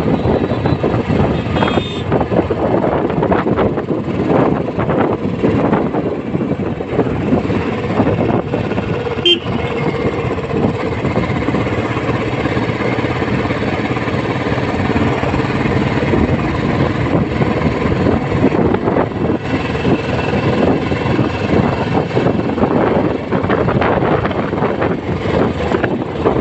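A Royal Enfield Classic 350's single-cylinder engine running steadily as the motorcycle is ridden, mixed with road noise.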